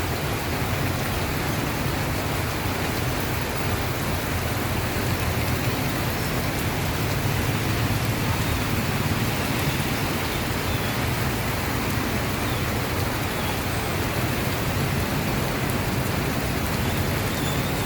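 Heavy monsoon rain falling steadily, an even hiss, over a low rumble of road traffic.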